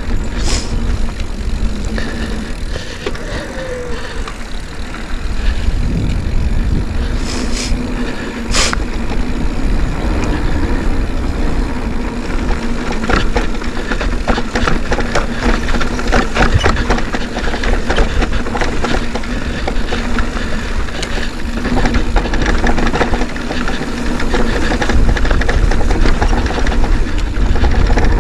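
Riding a mountain bike on a dirt trail: steady wind rumble on the microphone with tyre noise and many quick clicks and rattles from the bike over rough ground.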